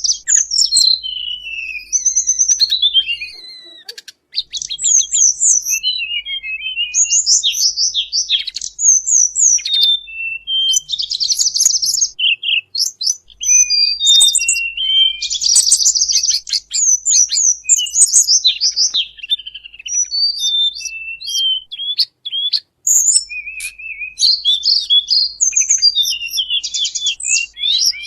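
Birdsong of the tledekan bambu, played as a bird-trapping lure call: a busy stream of high, quick chirps, rapid trills and sweeping twitters, broken by a few brief pauses.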